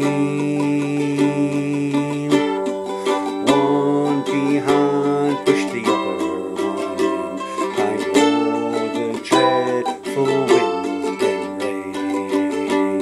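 Mandolin and accompanying acoustic instruments playing an instrumental passage of a slow folk waltz, with plucked notes over sustained tones.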